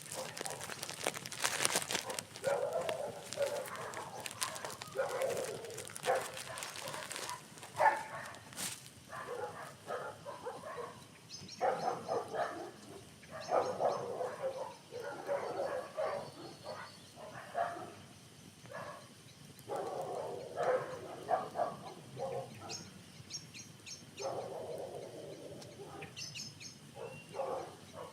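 Campfire crackling and popping as the wood burns, with irregular snaps that come thickest in the first few seconds. Small birds chirp briefly a few times in the background.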